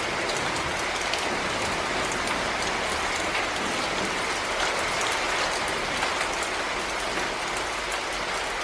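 Heavy rain falling steadily, a dense even hiss with many individual drops ticking.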